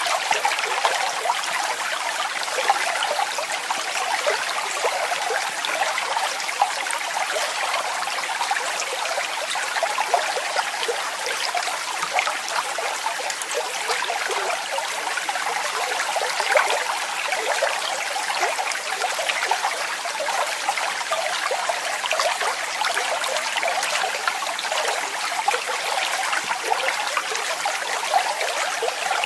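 Waterfall running steadily: an even rush of splashing water, mostly in the middle and high pitches, with no deep rumble.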